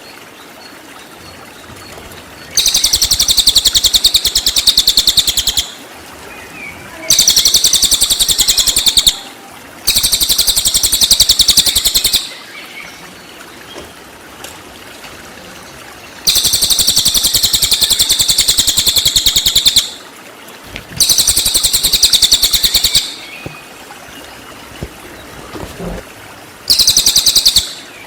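Cililin songbird singing its 'tembakan' phrases: six rapid, high-pitched trills of fast repeated notes, each lasting two to four seconds, with short pauses between them.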